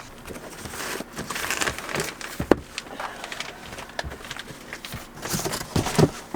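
Loose items being picked up and handled, rustling with scattered clicks and two sharper knocks, one about two and a half seconds in and one near the end.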